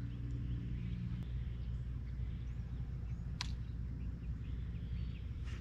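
Steady low hum of a boat's motor, with one sharp click about three and a half seconds in.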